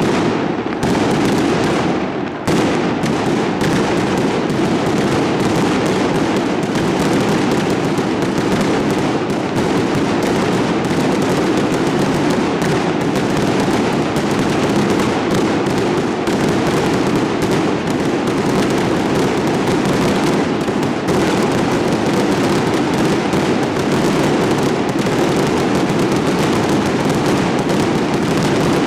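A fireworks display going off in a continuous dense barrage, with shells and crackles overlapping into one loud, unbroken rumble and crackle.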